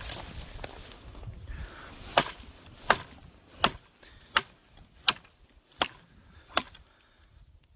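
Wood being chopped: seven sharp, evenly spaced strokes into wood, about one every three-quarters of a second, starting about two seconds in.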